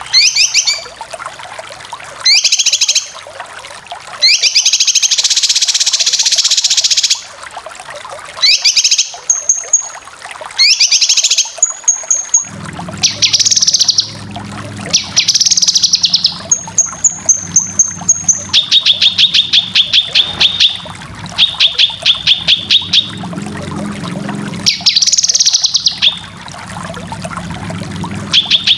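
Cucak kinoy bird song: repeated short bursts of fast, high chattering trills, with thin high whistles between them and, in the later part, runs of quick evenly repeated notes. A steady low hum sits underneath from a little before halfway on.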